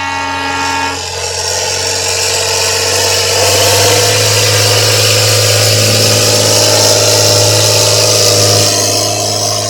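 A horn sounds and cuts off about a second in, then a pulling tractor's engine builds and runs loud and steady, easing off near the end.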